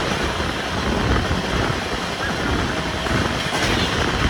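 Brindavan Express passenger train running on the track, a loud, steady rushing noise with no breaks.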